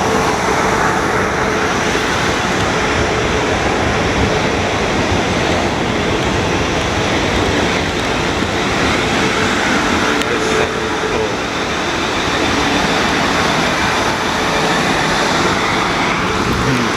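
South Western Railway Class 450 electric multiple unit running through the station with a loud, steady rumble. A faint steady whine sits under the rumble for about the first ten seconds.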